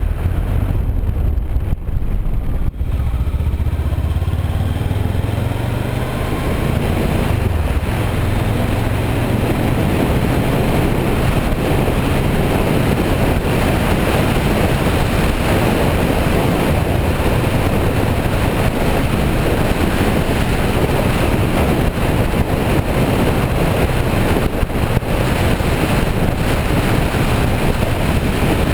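Kawasaki Versys 650 parallel-twin engine pulling away, its pitch rising over the first few seconds. After that, heavy wind noise on the microphone covers the engine as the motorcycle rides on steadily.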